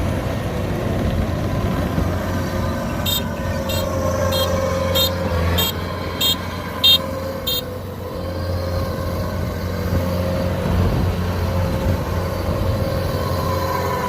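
Kubota DC93 combine harvester's diesel engine running under load, its pitch shifting slightly as it works through the mud. A little before the middle, a run of eight short high beeps about half a second apart sounds over the engine.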